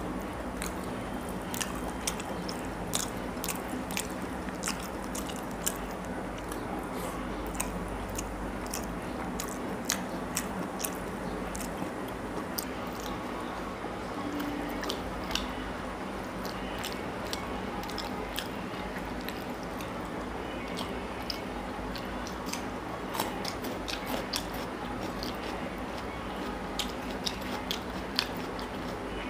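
Close-miked eating sounds of rice and curry eaten by hand: wet chewing, lip smacks and fingers squishing rice on a plate, heard as frequent irregular clicks over a steady low hum.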